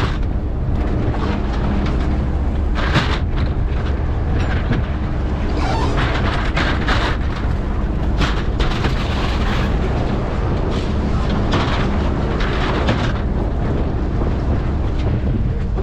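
Fishing boat's engine running steadily with a low hum, with irregular gusts of hiss from wind buffeting the microphone over it.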